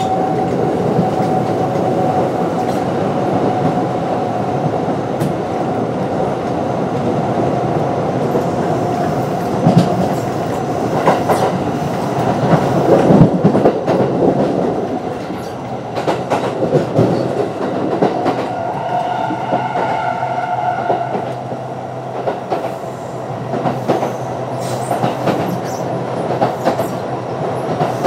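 Running sound of a Kintetsu 9020 series electric train with Mitsubishi IGBT-VVVF drive, heard from on board: a steady rumble with wheels clicking over rail joints. It swells louder about halfway through, and a short high whine sounds about twenty seconds in.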